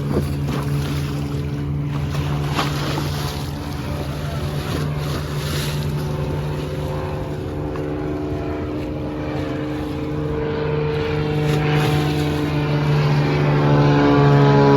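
A boat's engine running steadily with a low, even hum, growing louder and rising in pitch near the end.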